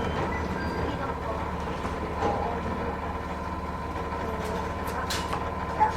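Cabin sound of a Matsumoto Electric Railway 3000-series electric train: a steady low rumble with a faint constant hum, and a short click near the end.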